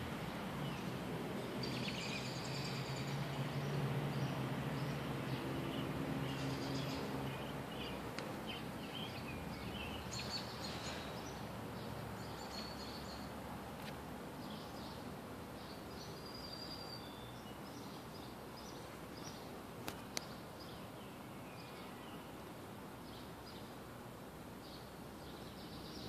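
Outdoor background with many short, high bird chirps and calls scattered throughout, over a steady hiss. A low hum fades out about halfway through, and two sharp clicks come about three-quarters of the way in.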